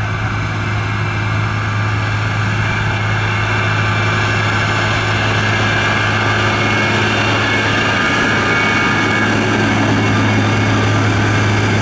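Heavy construction machinery's diesel engine running steadily, with a strong low drone.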